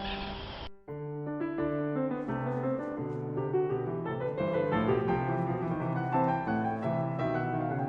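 Background piano music playing a lively melody over chords. Under a second in, a different sound cuts off abruptly just before the piano begins.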